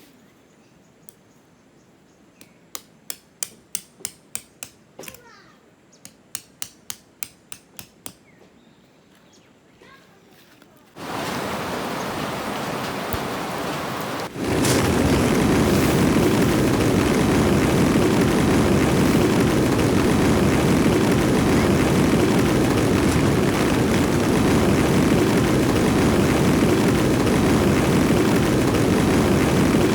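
Two short runs of sharp, evenly spaced clicks, about two a second, in quiet surroundings. Then a steady rush of heavy rain sets in suddenly and grows louder a few seconds later.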